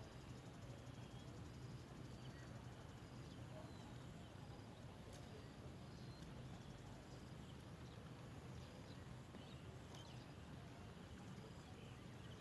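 Near silence: faint outdoor ambience with a low steady hum and soft, short, high chirps repeating about once a second.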